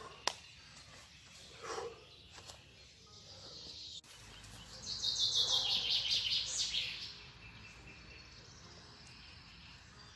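A songbird sings one fast trill of repeated high notes that falls in pitch, about two seconds long, midway through. Before it there is a sharp click just after the start over a faint outdoor background.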